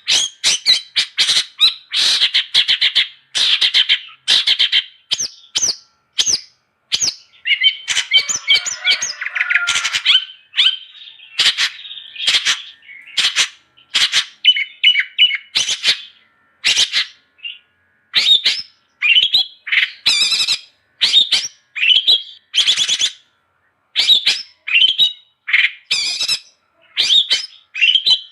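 Long-tailed shrike (cendet) singing vigorously: a fast, varied string of sharp chirps, harsh squawks and short rising notes separated by brief gaps, with a harsh scratchy chatter about eight seconds in.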